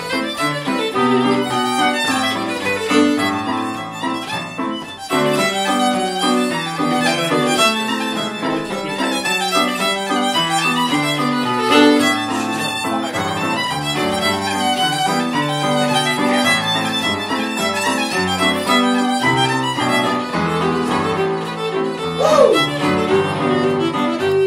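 Irish traditional session music: a fiddle-led tune played in quick, even runs of notes, with other instruments alongside.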